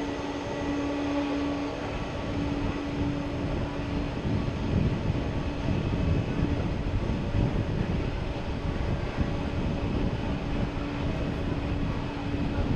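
Jet airliner engines running: a steady whine over a low rumble that swells a little about four seconds in.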